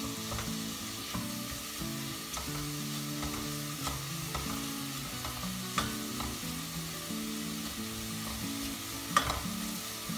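Sliced mushrooms sizzling in butter and oil in a stainless steel pot as a wooden spoon stirs them, with scattered knocks of the spoon against the pot, the loudest about six and nine seconds in. They are being sautéed so they give off their juice.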